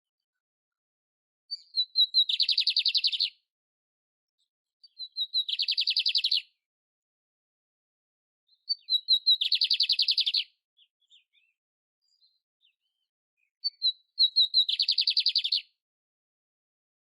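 Domestic canary (canário belga) singing. It gives four repeated phrases, each a few quick high chirps running into a fast, rattling trill, with short pauses between phrases.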